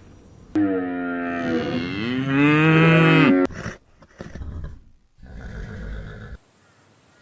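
A cow mooing: one long, loud call of about three seconds that bends in pitch, followed by a few quieter, rough, lower sounds.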